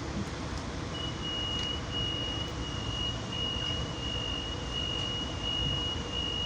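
Commuter railcar door-closing warning tone: a steady high beep that starts about a second in and runs on, over the low rumble of the train standing at the platform.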